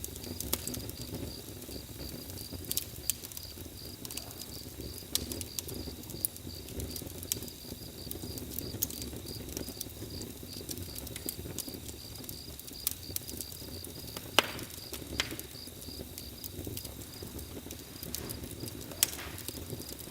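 Campfire crackling: sharp, irregular pops and snaps of burning wood over a low rumble.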